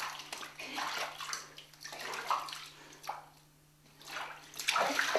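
Water splashing and sloshing in a bathtub as a shampooed cat is rinsed off, coming in irregular swells with a brief pause about three seconds in.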